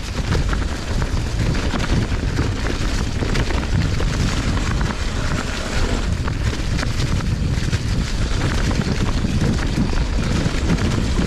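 Wind buffeting an action-camera microphone as a mountain bike descends a dirt trail at speed, with tyres rumbling over the ground and frequent sharp rattles and clicks from the bike.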